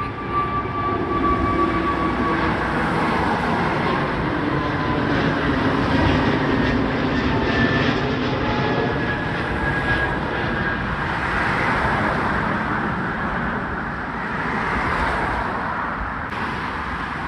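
Jet airliner departing at takeoff power: a steady engine roar with a faint drifting whine, loudest around the middle.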